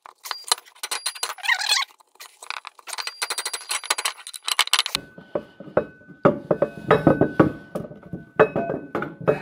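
Hand tools working threaded pipe fittings out of an engine water pump: rapid metal clicking and scraping, then heavier clinks and knocks from about halfway through.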